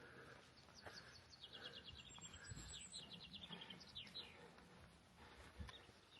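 Faint songbird song: a few quick trills of rapidly repeated high notes, each falling slightly in pitch, between about one and a half and four seconds in.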